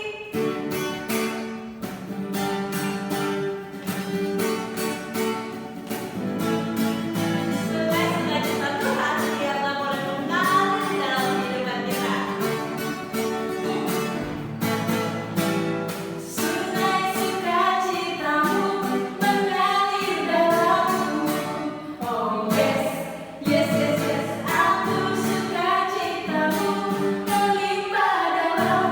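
A Christian children's song: voices singing over an instrumental backing with a steady beat.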